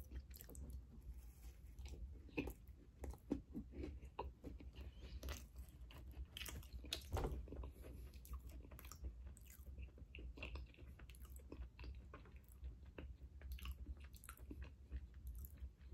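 A person chewing a bite of chocolate cookie topped with icing and sprinkles. The chewing comes as faint, irregular mouth smacks and soft crunches throughout.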